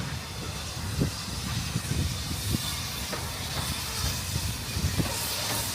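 Steam locomotive at a standstill, hissing steam steadily over a low rumble, with a few short knocks.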